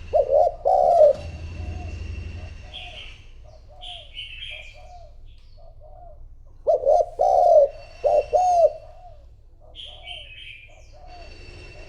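Spotted dove cooing: two loud bursts of its hoarse coo phrase, one at the start and one about six seconds in, with a run of softer, evenly repeated coos between them. Another small bird chirps higher up between the phrases.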